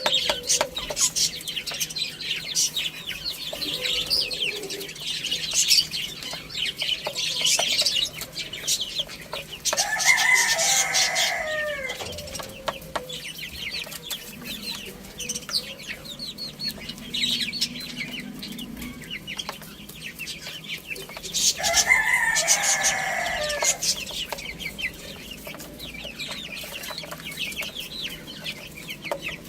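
A rooster crows twice, about ten seconds in and again about twenty-two seconds in, each crow lasting a couple of seconds. Between and under the crows, small birds chirp constantly and hens cluck.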